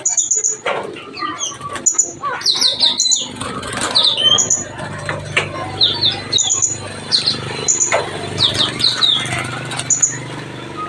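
Small birds chirping, many short high notes repeated in quick groups, with bursts of wing fluttering and light knocks in between.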